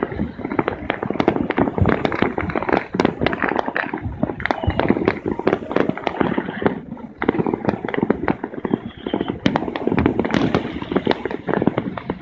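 Many fireworks going off across the city at once: a dense, near-continuous string of bangs and crackling pops, many a second, easing briefly about halfway through.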